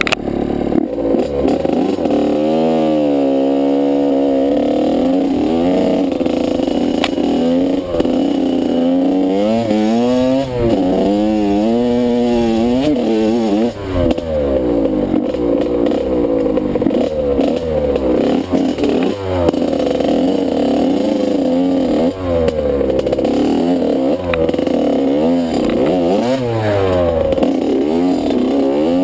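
Motocross dirt bike engine being ridden hard, its pitch rising and falling repeatedly as the rider revs up, shifts and backs off, about every one to two seconds.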